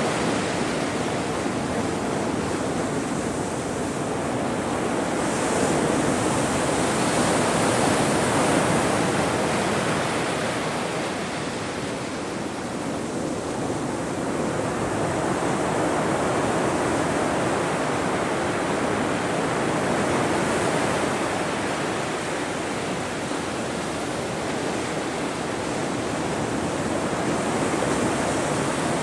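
Ocean surf: waves breaking and washing in a continuous rushing noise that swells and eases every few seconds.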